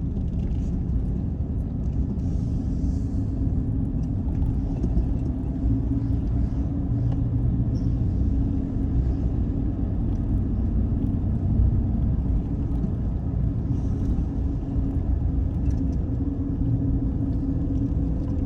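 Car driving slowly on a narrow back road: a steady low rumble of engine and tyres heard from inside the vehicle.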